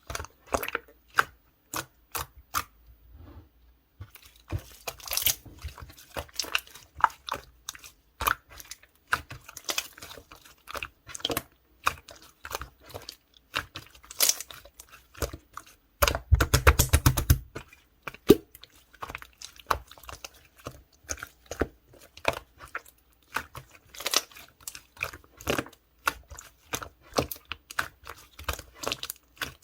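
Orange pearl slime being squished and pressed by hand, making irregular sharp clicks and pops, with a dense rapid crackling a little past halfway.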